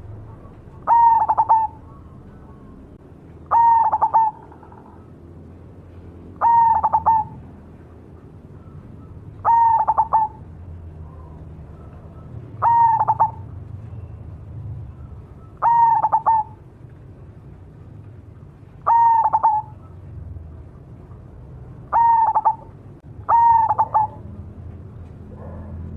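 Cemani zebra dove (perkutut) in full song, giving its pitched cooing phrase about every three seconds, nine times, the last two close together.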